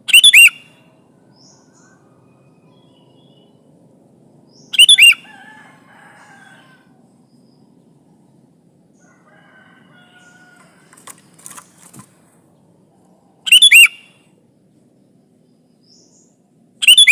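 Sooty-headed bulbul (kutilang) giving loud, short calls, four of them spaced several seconds apart, with fainter chirps in between.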